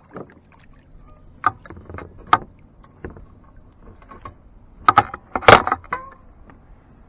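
Knocks and clatter of gear being handled in a kayak, with a cluster of loud bumps about five seconds in as the camera is knocked.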